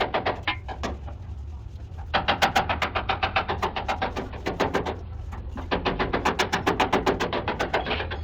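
Fast, regular knocking, about eight strikes a second, in runs broken by two short pauses, over a steady low hum.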